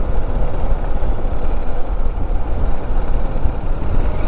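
Steady low rumble of wind on the microphone of a BMW G310GS motorcycle riding along, with its single-cylinder engine running underneath.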